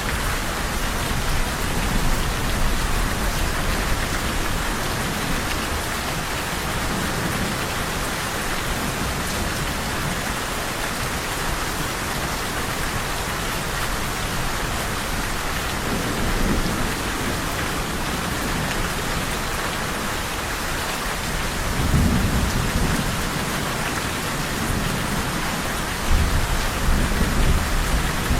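Steady heavy rain, a constant even hiss, with low rolls of distant thunder rumbling in about halfway through, again a few seconds later, and once more near the end.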